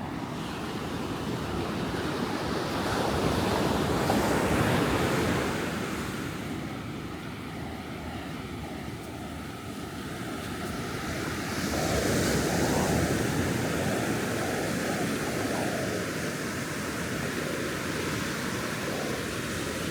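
Ocean surf breaking on a sandy beach, a steady wash that swells twice as waves come in, with wind on the microphone.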